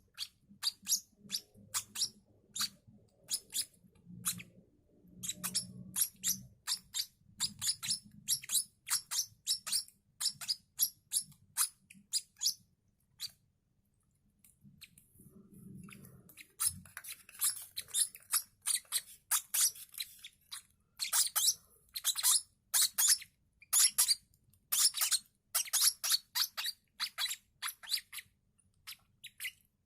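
Lovebird chicks cheeping in a long series of short, high-pitched calls, about two a second, the begging calls of young hand-fed chicks. The calls stop for a few seconds about halfway through, then come faster and louder.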